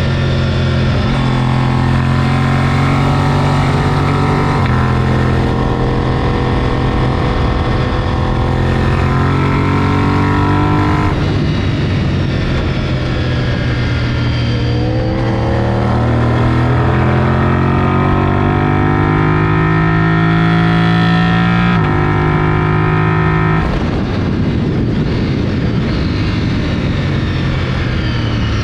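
Sport motorcycle engine under hard acceleration on a race track. The pitch climbs, drops sharply at gear changes about 11 s and 22 s in, then climbs again, with wind rush over it. Near the end the pitch falls away into a rougher, noisier stretch.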